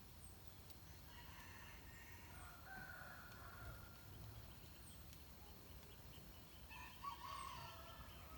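Faint rooster crowing: one long drawn-out crow about a second in and a shorter one near the end, with small high chirps from another bird every second or two.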